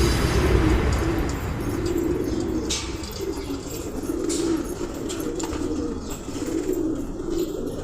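Domestic pigeons cooing: a run of low coos repeating every second or so.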